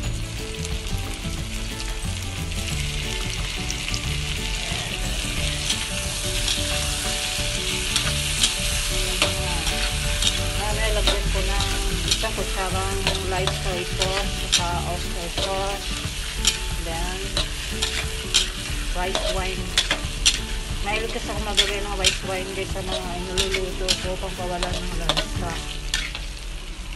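Shell-on prawns sizzling in butter in a wok while a metal ladle stirs and tosses them, with frequent sharp clicks and scrapes of the ladle against the wok.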